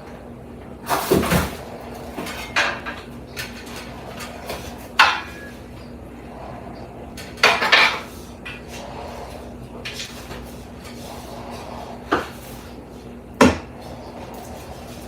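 Irregular clinks and scrapes of hard objects being handled, about half a dozen sharp strikes spread unevenly, over a faint steady hum.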